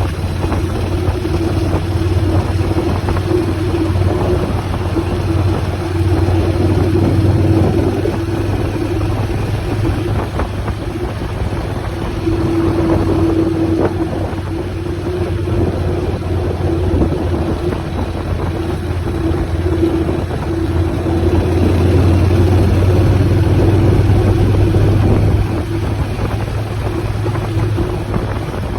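Motorcycle engine running steadily at cruising speed with wind rushing past, the engine note holding even. It grows a little louder for a while, then eases off a few seconds before the end.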